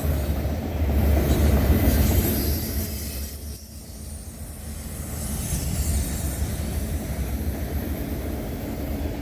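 CPKC freight train rolling past, a steady low rumble of steel wheels on the rails that is loudest a second or two in and eases briefly around three and a half seconds.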